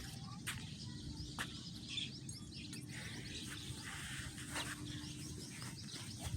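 Many birds chirping and calling with short, quick high notes, over a faint steady low hum.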